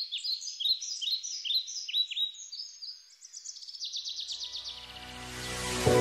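Small birds chirping: many quick, repeated downward-sliding chirps, then a rapid even trill around the middle. Soft music swells in over the last two seconds.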